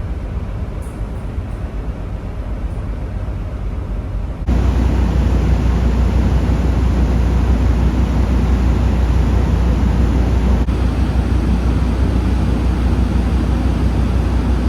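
Steady low rumble of the ferry Asakaze 21's engines and machinery heard aboard the ship. It jumps abruptly louder about four seconds in and changes character again about two-thirds of the way through.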